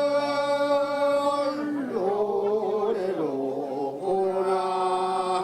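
Male singing of a Korean traditional farmers' field song (deulsori), in long held notes: a sustained note, a shifting melodic passage about two seconds in, then another long held note near the end.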